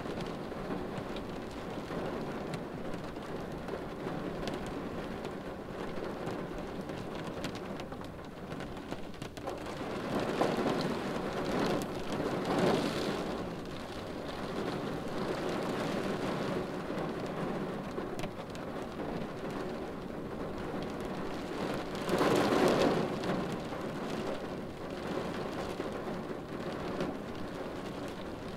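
Steady rain falling on a car windshield, a continuous wash of drops that swells louder a little after ten seconds in and again about two-thirds of the way through.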